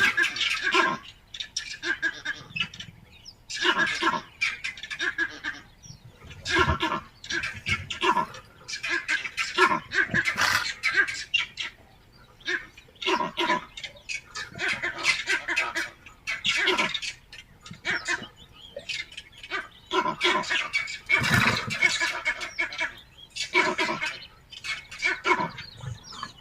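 Birds calling in repeated loud bursts, one every second or two.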